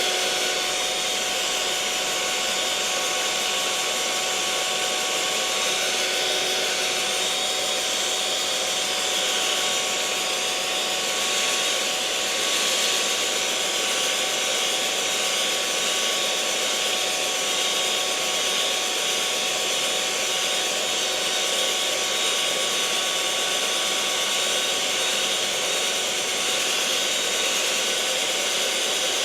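Electric mixer motor running at a constant speed: a continuous whirring hiss with a few steady whining tones in it, unchanging throughout.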